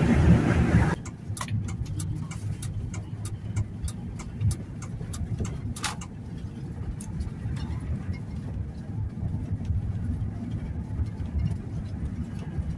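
Vehicle interior noise while driving: a steady low road-and-engine rumble with scattered light clicks and ticks. A louder rushing noise in the first second cuts off suddenly.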